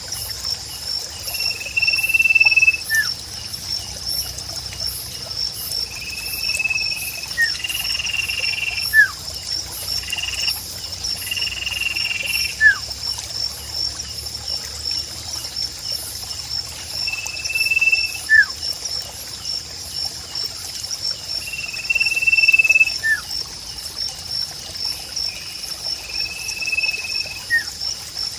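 Sirpu bird song in a nature ambience: short falling whistles every three to five seconds alternating with held whistled notes of about a second. Underneath runs a constant fast-pulsing high chorus.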